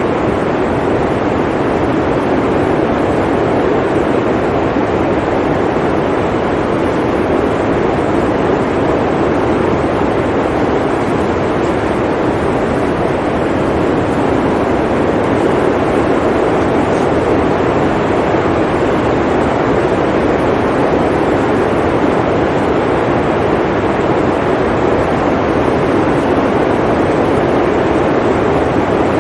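Blizzard wind blowing steadily, an even, unbroken rush of noise.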